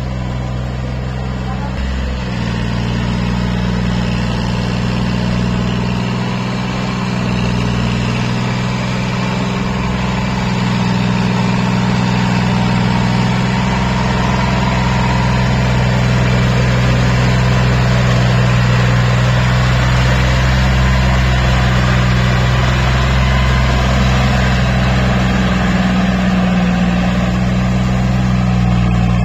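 Tractor diesel engine running steadily, growing a little louder about halfway through.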